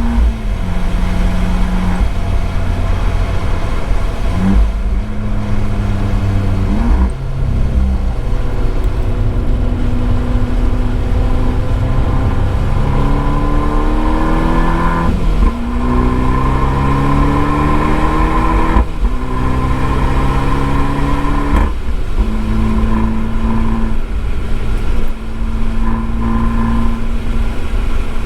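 Abarth 595 Esseesse's turbocharged 1.4-litre four-cylinder through an Akrapovic exhaust, pulling hard through the gears: the revs climb and drop sharply at each upshift, several times, then hold steady near the end. Heard from a microphone inside the boot.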